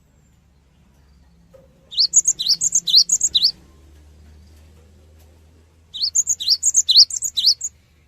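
Cinereous tit (gelatik batu) singing two phrases of its repeated whistled song, each of about four sharp rising notes, the second phrase about four seconds after the first.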